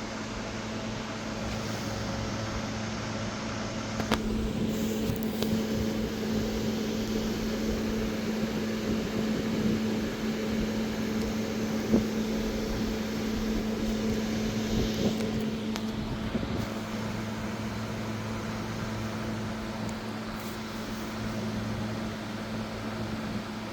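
A steady machine hum, with a couple of light sharp knocks, one about four seconds in and one about twelve seconds in.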